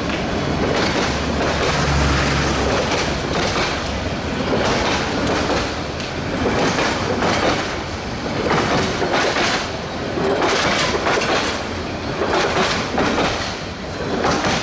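Bangladesh Railway passenger coaches passing very close at speed: a loud rushing noise with the clickety-clack of wheels over rail joints, the clacks swelling in repeated surges, often in close pairs, about every second.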